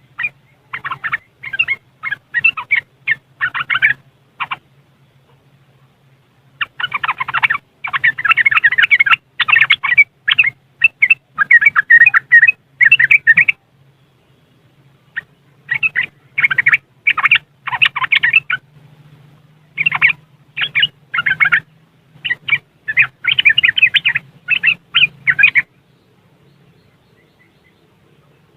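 Yellow-vented bulbul (trucuk) giving its fast chattering riwikan call in four bouts of several seconds each, with short pauses between them, then falling silent about three seconds before the end.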